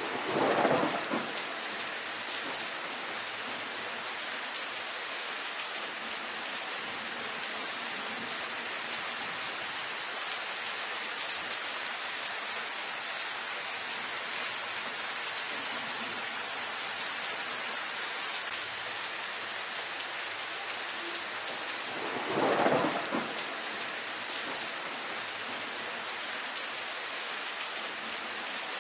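Steady rain falling on leafy foliage, an even hiss. Twice there is a louder swell about a second long, once right at the start and again about 22 seconds in.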